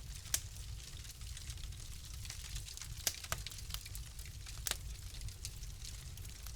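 Wood fire crackling in a fireplace: irregular small snaps with a few sharper pops, the loudest just after the start, around three seconds in and near the five-second mark, over a steady low rumble.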